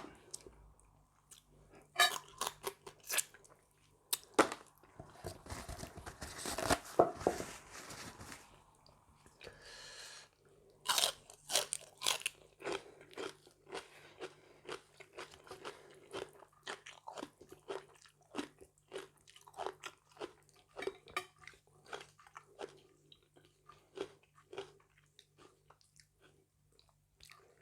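Close-up chewing and crunching of a spicy mixed-seafood salad of shrimp, crab, clams and squid, with irregular crunches and wet mouth clicks. There is a denser, louder run of crunching about five to eight seconds in.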